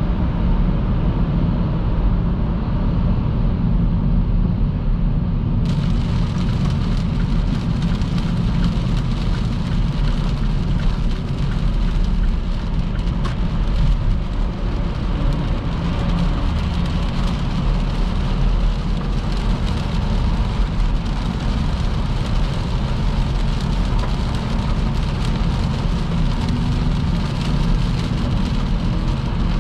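A car driving on a wet motorway in heavy rain: a steady low rumble of tyres and engine under the hiss of rain and water spray. About six seconds in, the hiss suddenly turns sharper and stays that way.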